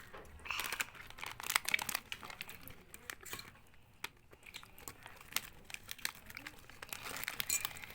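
Close-up eating sounds: crunchy food such as coated peanuts being chewed, with many quick irregular crackles and clicks.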